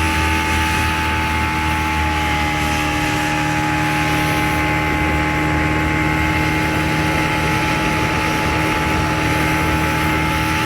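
Speedboat engine running steadily, a loud constant drone with unchanging tones.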